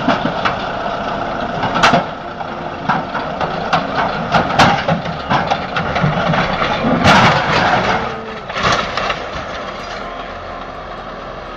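Heavy truck engine running, with repeated knocks and rattles; the loudest bangs come about two, four and a half and seven seconds in.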